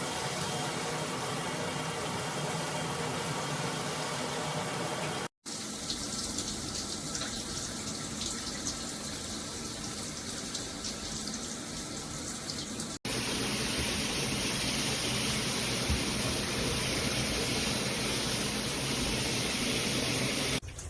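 Water spraying steadily from a filtered shower head, in three stretches cut together abruptly about five and thirteen seconds in.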